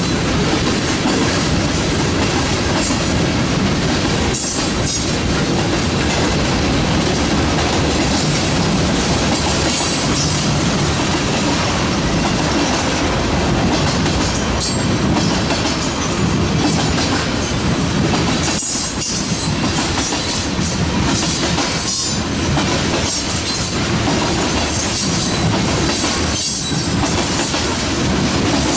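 Freight cars of a mixed train (boxcars, tank cars and covered hoppers) rolling past at close range, their steel wheels clattering over the rail joints in a loud, steady rumble. Now and then a brief high squeal comes from the wheels.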